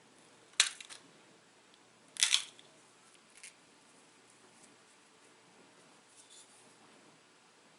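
Sharp clicks of pressure flakes snapping off the edge of a small dacite arrowhead as a pressure flaker zigzags along it to sharpen it: two crisp clicks about a second and a half apart, then a few faint ticks.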